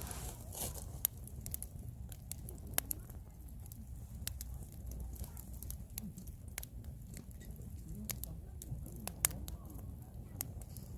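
Firewood burning in a campfire, crackling with irregular sharp pops, a few louder snaps among them, over a steady low rumble.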